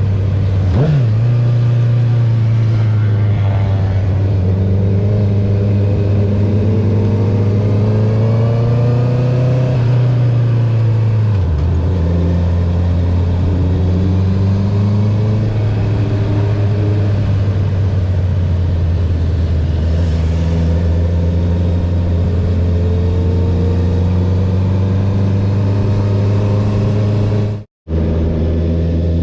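2021 Honda CB650R inline-four running through an Akrapovic full titanium exhaust with the dB killer removed, at a steady cruise with the pitch rising gently, dropping about eleven seconds in, then climbing again. The sound cuts out for a split second near the end.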